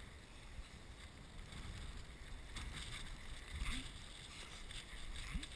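Strong wind buffeting the microphone: a steady low rumble, with a few faint knocks and a brief faint rising tone near the end.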